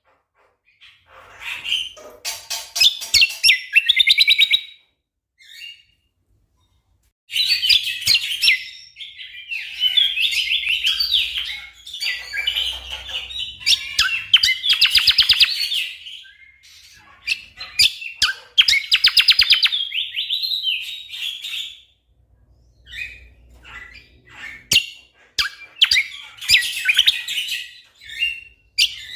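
Cucak kombo songbird singing in bursts of rapid, closely spaced high notes ('tembakan'), each phrase lasting a second or two, separated by short pauses, with a longer pause about five seconds in.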